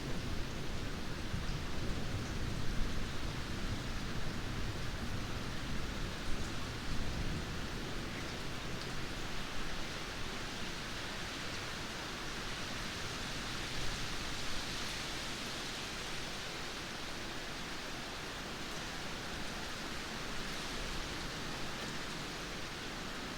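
Steady rain falling in a thunderstorm, with the low rumble of thunder dying away over the first several seconds.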